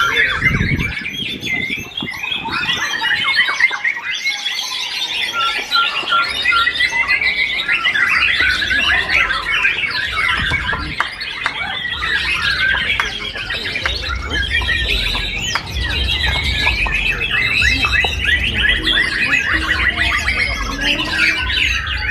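Many caged songbirds at a singing contest, singing at once: dense, overlapping fast chirps, whistles and trills with no pause. A low rumble sits under the song in the second half.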